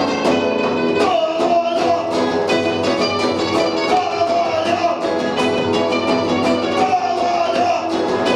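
Punk rock band playing live: a full band with guitars and drums, and a held, wavering lead note that comes back every few seconds over the beat.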